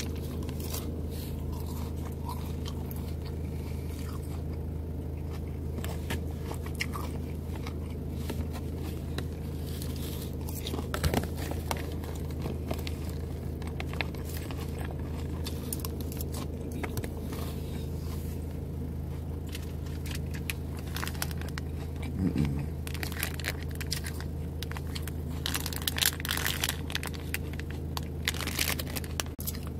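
Close-up crunching and chewing of a lettuce salad, with short clicks and crackles, over a steady low hum. Near the end there is denser crackling of a plastic wrapper as the hard-boiled egg packet is handled.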